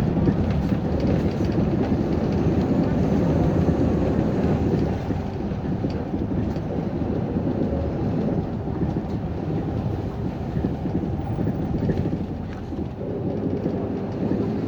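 City bus running between stops, heard from inside the cabin: a steady rumble of engine and road noise that eases slightly about five seconds in and again near the end.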